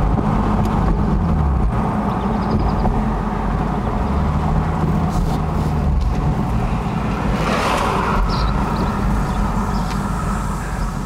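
Infiniti G37S's 3.7-litre V6 running through an MXP exhaust with Berk test pipes (test pipes in place of the catalytic converters), loud and steady under acceleration in drive. Its note steps in pitch a few times as the seven-speed automatic shifts. A brief hiss rises about three quarters of the way through.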